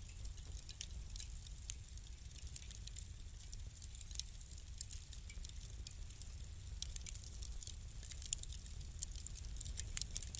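Wood fire burning in a fireplace, crackling with scattered irregular pops over a steady low rumble; the pops grow denser, with a few louder snaps, in the second half.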